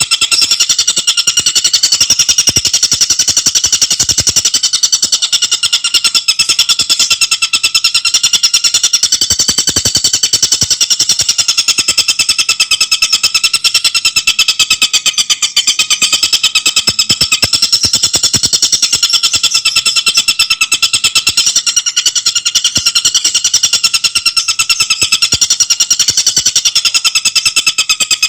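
Tengkek buto bird singing a loud, unbroken, fast rattling trill of rapidly repeated high notes.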